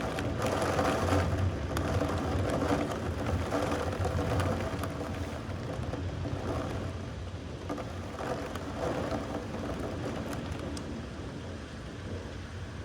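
Steady rain with a low rumble, louder in the first few seconds and slowly easing off.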